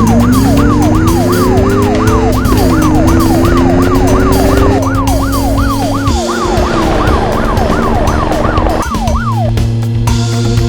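Cartoon emergency-vehicle siren sounding in quick repeated falling sweeps, about three a second, cutting off about nine seconds in, over steady background music.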